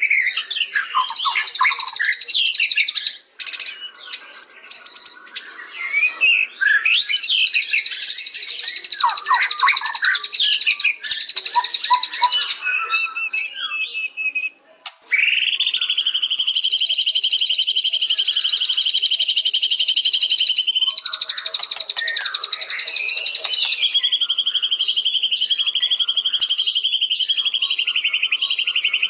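White-rumped shama (murai batu) singing: varied sliding whistled phrases mixed with fast, high chattering. About halfway through, the song changes to a long, even trill that is broken briefly and then picks up again.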